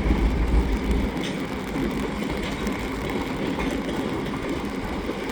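Diesel switcher locomotives working a cut of cars, the engines running with a deep rumble that is strongest in the first second. Faint wheel clicks come roughly every second as the cars roll along the track.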